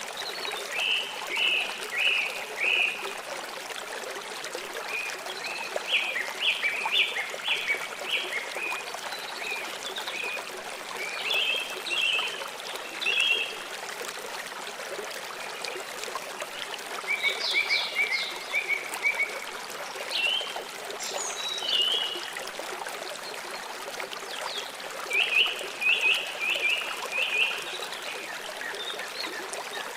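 Water flowing steadily, with a bird singing short phrases of quick repeated chirps every few seconds.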